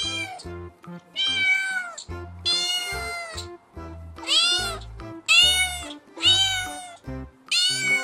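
A cat meowing over and over: about six drawn-out meows, each rising then falling in pitch, over background music with a repeating bass line.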